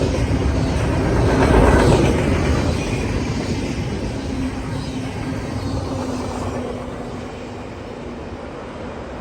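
CSX freight train rolling past with a steady rumble and a faint low hum. It is loudest about two seconds in, then slowly fades.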